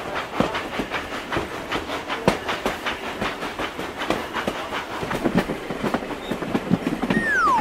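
Train sound effect of wheels clattering over rail joints in a steady clickety-clack rhythm. Near the end a single tone starts, gliding down in pitch.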